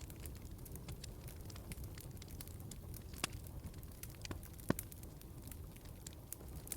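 Wood fire in a fireplace crackling, with scattered sharp pops over a low steady rumble; the loudest pops come about three seconds and four and a half seconds in.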